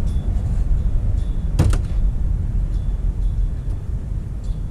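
Wind rumbling on the microphone, with one sharp knock about a second and a half in.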